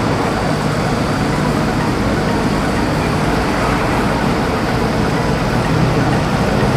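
Steady vehicle engine and road noise, as from a vehicle driving at a constant speed.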